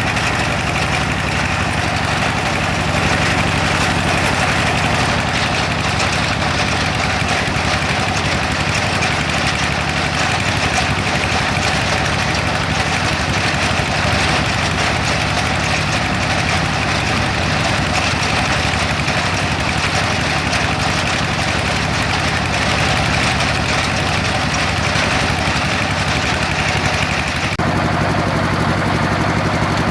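Homemade well-drilling rig driven by an AC electric motor, running steadily with a continuous mechanical drone. Near the end the sound changes and turns duller.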